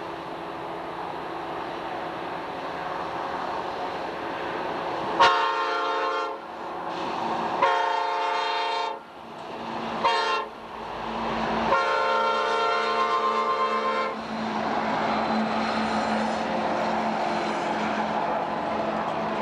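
Horn of a Norfolk Southern diesel freight locomotive, an SD50, sounding the grade-crossing signal: two long blasts, one short and a final long one. The engines and rolling noise of the approaching train build underneath and carry on after the horn stops.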